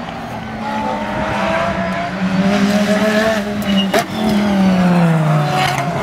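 Race car engine under hard running: its note climbs steadily, a sharp click comes about four seconds in, then the pitch drops as the car slows and starts to climb again near the end.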